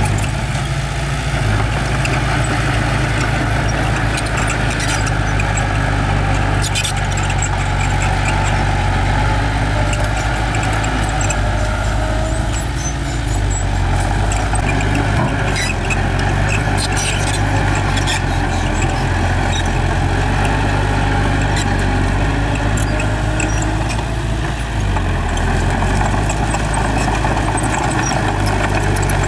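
Bulldozer's diesel engine running steadily, its pitch shifting a little now and then, with scattered sharp clicks and clanks over it.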